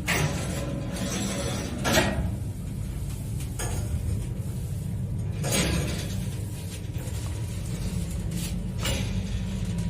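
Lift machinery running with a steady low hum, most likely the AS-62-6/18 two-speed lift motor. Several sharp mechanical clacks cut across the hum, the loudest about two seconds in.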